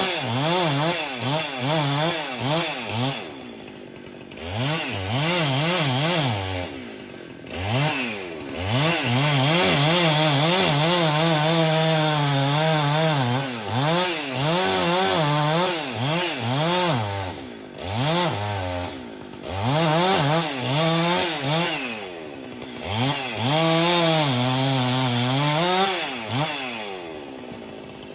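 Stihl two-stroke chainsaw running hard, its engine speed rising and falling over and over as it cuts through wood. It drops back toward idle several times between runs at high revs.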